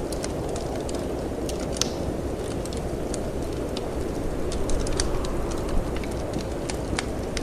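Wood fire crackling, with irregular sharp pops and snaps, over a steady low rumble of wind.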